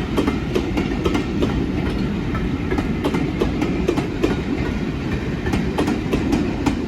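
Railway train running along the track: a steady rumble with many irregular clicks of wheels over rail joints.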